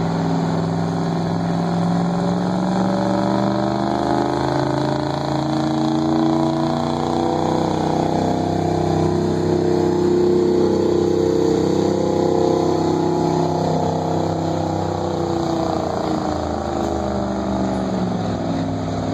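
Small-block 350 V8 of a 1992 Chevy crew-cab pickup running hard under load while pulling a sled. The engine pitch climbs slowly to a peak about halfway, then sinks as the truck is dragged down by the sled and falls off further near the end as it stops.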